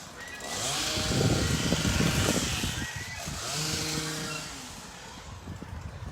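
A motor engine running, growing louder about a second in, easing off briefly, then swelling again before fading near the end.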